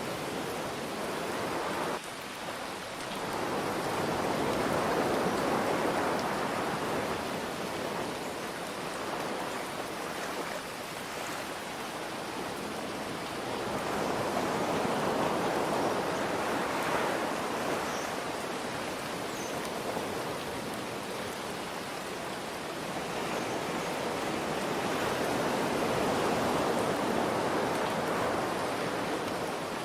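Ocean waves washing in three times, about ten seconds apart, over a steady hiss of rain.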